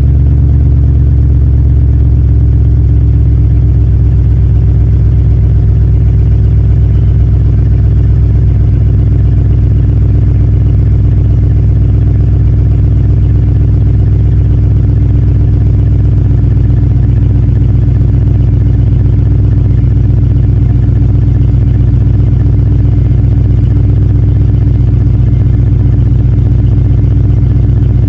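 2016 Dodge Ram 2500's V8 idling steadily and loudly on a cold start.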